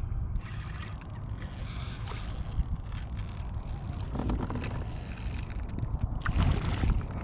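Water splashing and lapping around a fishing kayak, with wind rumbling on the microphone and a few louder irregular splashes about four and six seconds in.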